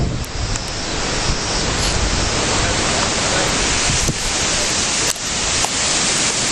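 Strong wind from the remnants of Hurricane Ike blowing over the microphone: a loud, steady rush with a heavy low buffeting rumble.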